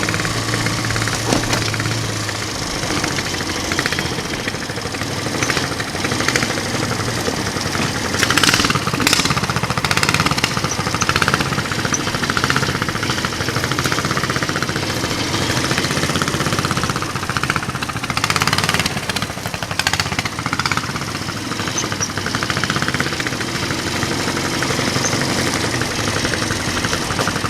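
Mini-bike trike's 420 engine running with a steady rumble, getting louder for a while about eight seconds in and again near twenty seconds.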